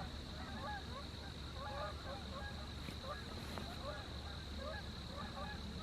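A flock of geese honking in flight, many overlapping calls several a second, faint and distant.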